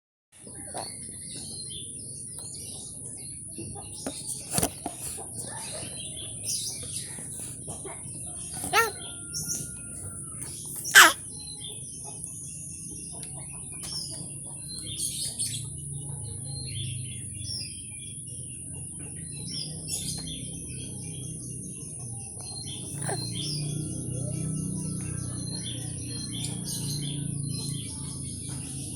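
Morning countryside ambience: many birds chirping and singing over a steady high-pitched insect buzz. A few short, sharp loud sounds stand out, the loudest about eleven seconds in.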